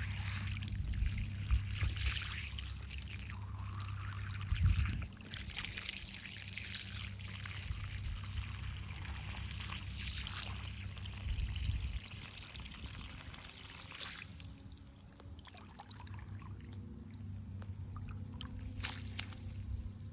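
Water pouring and trickling into an ant nest in the ground to flood it, easing off about fourteen seconds in.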